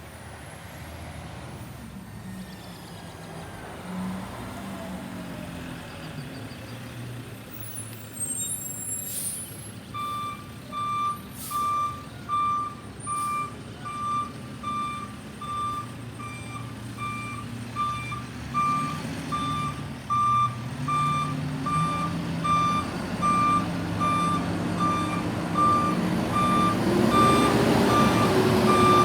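Garbage truck approaching with its engine running and growing louder. About a third of the way in its reversing alarm starts beeping steadily, roughly once a second, while the engine pitch rises near the end.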